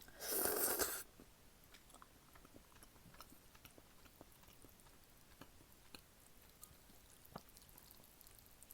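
A loud, brief slurp of jjapaguri noodles just after the start, followed by quiet, close-miked chewing with small scattered mouth clicks.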